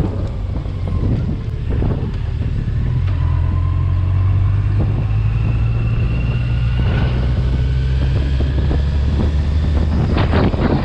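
Yamaha FJR 1300 touring motorcycle's inline-four engine running at road speed, heard from the rider's seat with wind rushing over the helmet microphone. The engine grows a little louder about four seconds in.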